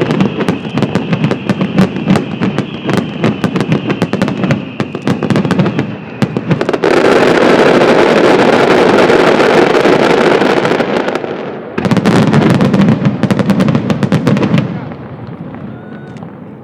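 Aerial fireworks in a closing barrage: many shells bursting in quick succession with crackling and a faint high whistle, then merging into a continuous roar for several seconds. After a brief lull a second dense barrage follows, and about fifteen seconds in the bursts stop and the echoes die away.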